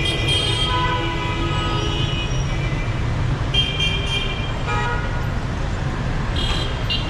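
Dense city traffic with a steady engine rumble and vehicle horns honking over it again and again: one horn is held for about two seconds at the start, then shorter toots follow.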